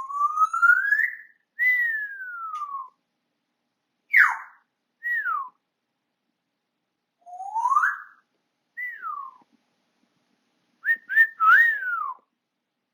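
African grey parrot whistling a string of pure-toned whistles that slide in pitch. It opens with a long rising whistle, then a long falling one, followed by shorter falling whistles, another rising one, and a quick run of several short notes near the end.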